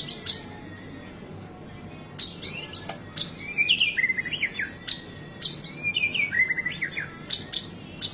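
White-rumped shama singing: after a quiet opening, about two seconds in it breaks into a fast run of sharp, high chip notes mixed with falling slurred whistles and short trills, stopping near the end.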